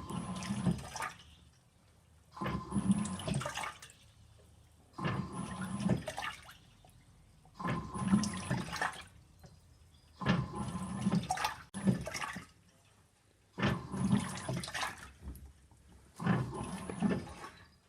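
Simpson 8.5 kg washing machine agitating on its gentle delicates wash: short bursts of water sloshing with a motor whine, each about a second long, with a pause between, repeating about every two and a half seconds.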